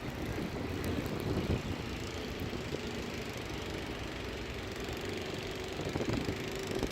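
A running engine: a steady low rumble with a faint steady hum above it.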